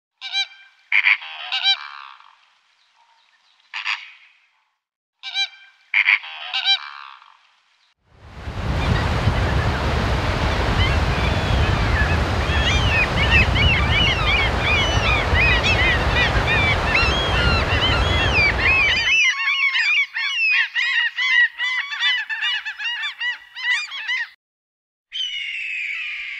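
Large birds honking: a few separate harsh honks at first, then a dense flock calling together over a deep rumble for about eleven seconds, then many overlapping calls and a final honk near the end.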